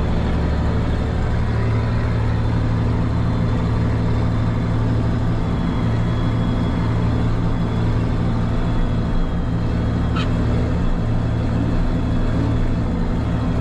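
Case 2670 four-wheel-drive tractor's diesel engine running steadily under load, pulling a disc chisel through a pile of corn stalks.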